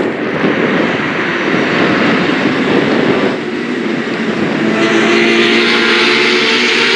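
Racing motorcycles passing at speed with engines at high revs. One bike goes by in the first three seconds, and after a short dip another comes in loud from about five seconds in.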